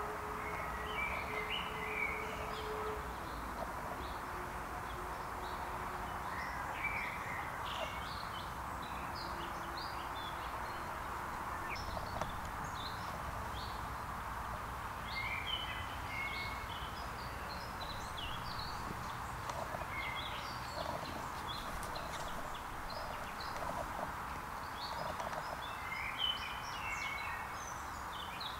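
Woodland birdsong: many small songbirds chirping and trilling on and off throughout, over a steady background hiss.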